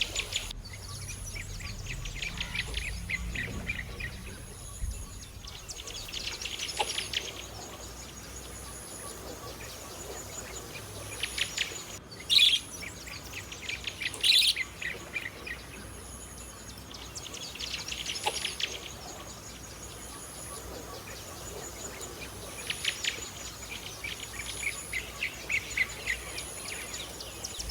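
Pet budgerigar chattering in repeated spells of rapid chirps, with a few louder, sharp calls near the middle. A faint high-pitched tone pulses steadily in the background.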